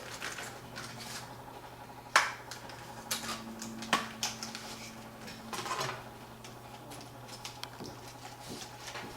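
Scattered small clicks, taps and rustles of hands handling computer memory sticks and their plastic packaging, the sharpest about two seconds in and again at four seconds, over a steady low hum.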